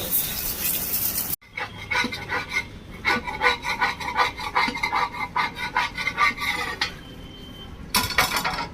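Rapid repeated scraping strokes, several a second, starting after a sudden cut about a second and a half in and stopping near seven seconds. A short burst of hiss comes near the end.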